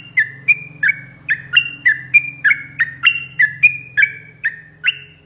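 Yellow-vented bulbul (trucukan) singing a fast, unbroken run of short liquid notes, about three a second, alternating between a few pitches.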